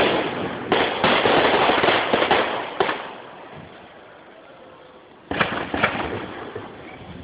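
Aerial firework shells bursting: a bang about a second in followed by a couple of seconds of crackling that dies away, then a second bang with a few sharp pops after the middle.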